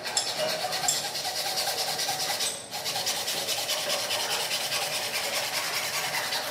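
Abrasive scraping on wood, as in sanding or rasping a wooden handrail, going on steadily with a short break about two and a half seconds in.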